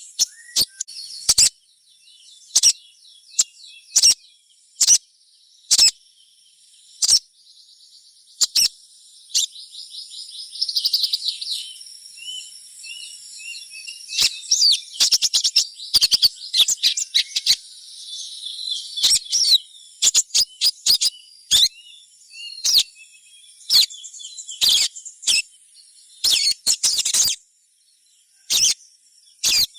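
Little spiderhunter (sogon) calling: many short, sharp high chirps, some run together into quick trills, in the style of a juvenile's calls. A steady high insect drone runs beneath.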